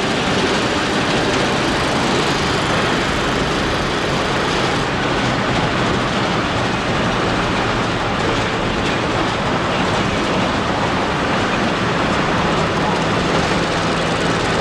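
Steady road and engine noise inside a moving van, an even rushing hum with a low drone underneath.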